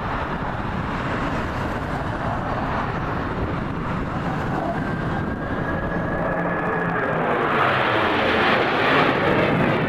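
An airplane's engine noise at an air show, a steady rush that swells to its loudest about eight to nine seconds in as the plane passes.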